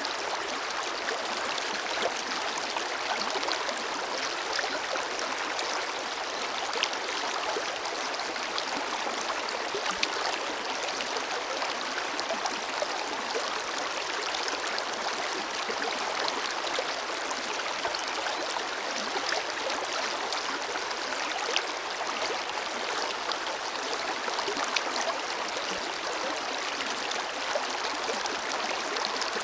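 Forest river flowing steadily over rocks: a dense, even rush of water with fine splashing and gurgling.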